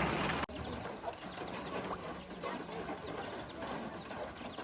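Birds calling over a steady background hiss, starting after an abrupt cut about half a second in.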